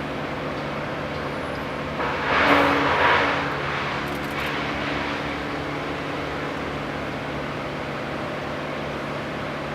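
Steady motor noise from workers' machinery clearing a fallen tree, with a louder noisy surge about two seconds in that lasts for a second or so.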